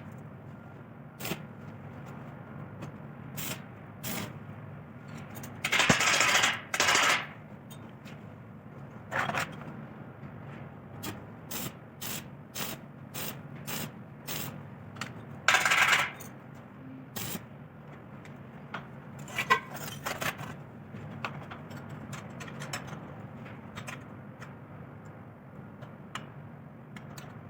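Metal workshop handling: tools and steel parts clinking, knocking and scraping, with a few short, harsher and louder noisy bursts about six, nine and sixteen seconds in.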